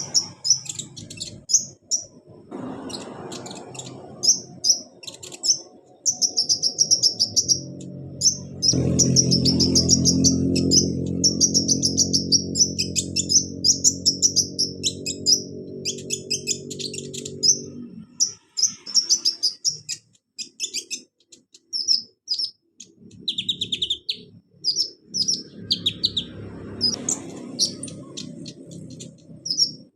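Kolibri ninja (konin) sunbird chirping and twittering in quick, high phrases, used as a lure and therapy song to set a silent konin singing. A low steady hum runs underneath, loudest in the middle stretch.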